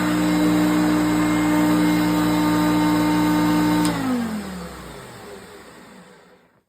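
Hoover Concept One Power Drive self-propelled upright vacuum cleaner running with a steady motor whine, then spinning down about four seconds in: the pitch falls and the sound fades away over a couple of seconds.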